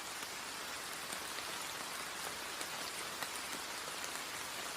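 Steady rain falling, an even hiss with scattered drop ticks, with no music over it.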